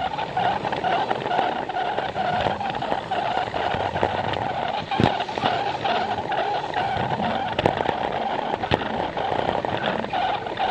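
Plarail toy train running on plastic track: a steady gear-motor whine with wheel rumble, and a few sharp clicks.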